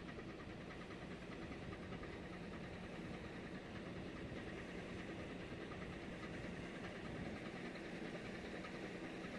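Ship's engine running steadily: an even drone with a low hum.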